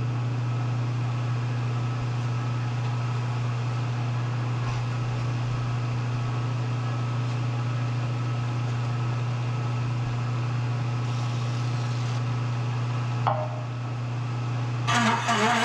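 A Bridgeport milling machine running steadily with a hole saw in the spindle, giving a constant low electric-motor hum. There is a short sound about 13 seconds in.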